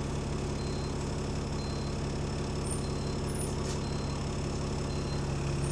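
Diesel bus engine idling steadily with a low drone, on a bus that has an exhaust leak. A short high beep sounds about once a second.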